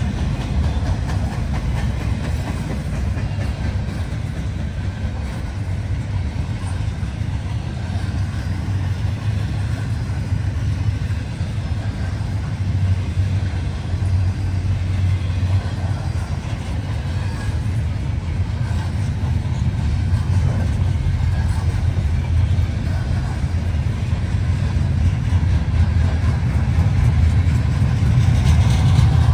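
Train running by with a steady low rumble that grows a little louder near the end.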